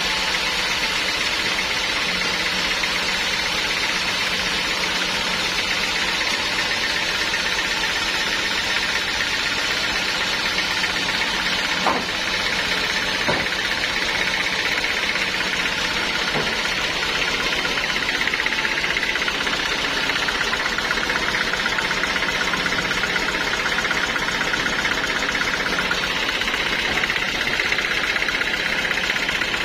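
Sawmill machinery running steadily, with a few sharp knocks in the middle.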